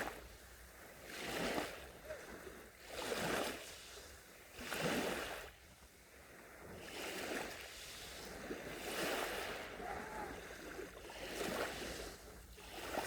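Small sea waves breaking and washing up a beach. The first half has a surge every second or two, and it turns into a steadier wash of surf for the rest.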